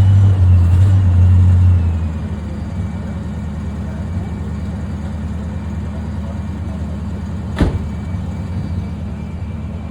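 A classic car's engine running close by, louder for the first two seconds and then settling to a steady idle. One sharp click about seven and a half seconds in.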